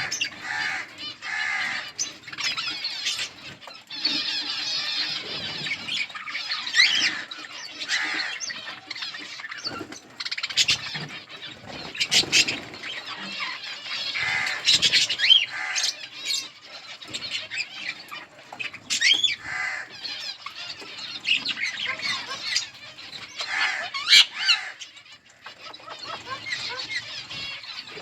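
A flock of budgerigars chattering and chirping without pause, a busy mix of short warbles and squawks, with frequent sharp clicks among them.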